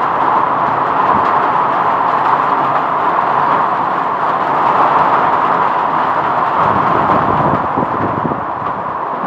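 Strong whirlwind winds blowing, a loud, steady rushing noise, with low buffeting gusts from about six and a half seconds in.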